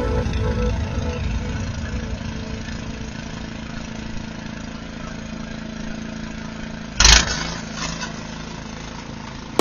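An engine running steadily, with one loud thump about seven seconds in.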